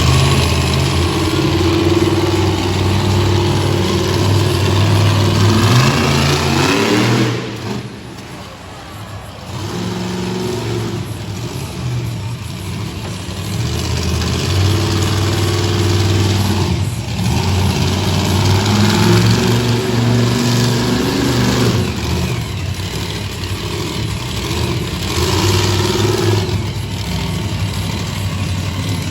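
Monster truck engine revving hard, with the throttle easing off and opening again several times; the revs drop for a couple of seconds about eight seconds in.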